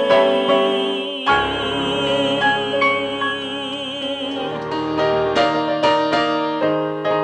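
Piano accompaniment with a long held note wavering in vibrato over it. About four and a half seconds in the held note ends and the piano plays on alone, leading into the next ballad.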